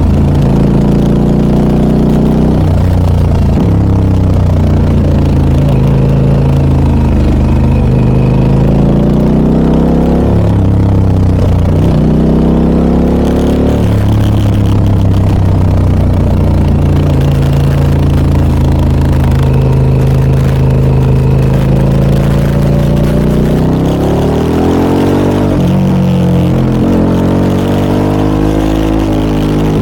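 Harley-Davidson Pan America 1250 Special's Revolution Max V-twin running through an aftermarket Scorpion muffler while being ridden. The engine note keeps dropping and climbing as the bike slows and accelerates, with several rising pulls near the end.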